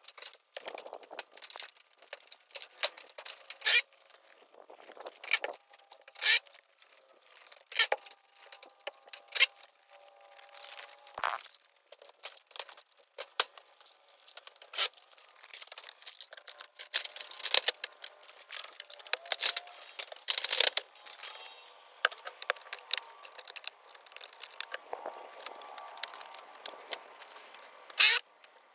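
Sped-up clatter of gutter installation work: many quick, sharp clicks and metallic knocks from the gutter and hand tools being handled and fastened, sounding high and thin from the speed-up.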